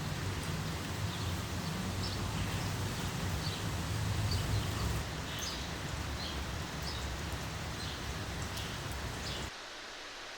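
Steady rain falling, with a low rumble underneath and scattered short high ticks. It cuts off suddenly about a second before the end, leaving a quieter steady hiss.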